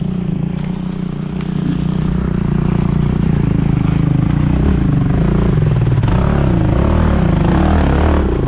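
Dirt bike engine revving hard under load on a muddy hill-climb attempt, the throttle held fairly even and the level building slightly.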